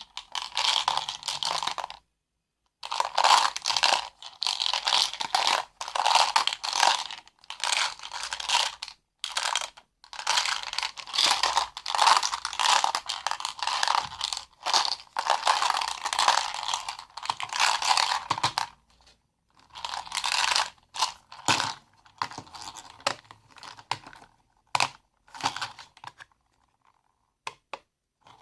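Close-miked crinkling and crackling handling sounds, in long dense stretches broken by short silent gaps, thinning to scattered clicks near the end.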